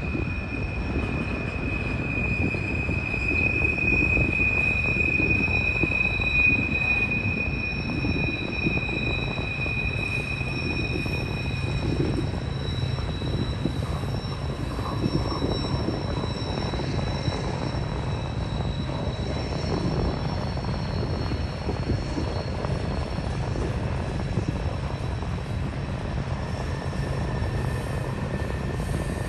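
Manifest freight train rolling through a curve: a steady rumble of wheels on rail with small knocks, over which long high-pitched squeals ring out as wheel flanges grind against the curving rail.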